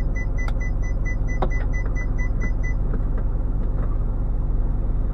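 Car moving, heard from inside the cabin: steady low engine and road hum. A rapid run of short high electronic beeps, about five a second, stops a little over halfway through.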